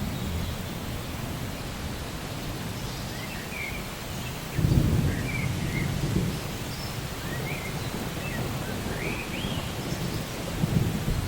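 Steady rain with low rolling thunder, one rumble breaking in suddenly about halfway through and another near the end. Over it a bird gives a series of short rising chirps.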